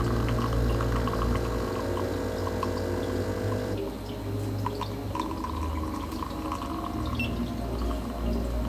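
Espresso pouring and dripping from the DeLonghi Dedica EC685's bottomless portafilter, over a steady low hum. A steady higher tone drops out about four seconds in.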